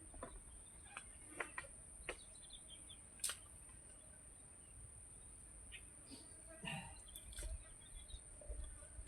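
A steady high-pitched insect drone, with scattered faint clicks and knocks.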